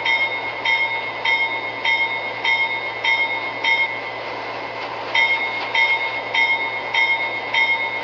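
CSX locomotive bell ringing in steady strokes, about one every 0.6 seconds. It breaks off briefly about four seconds in, then resumes, over the steady noise of the train.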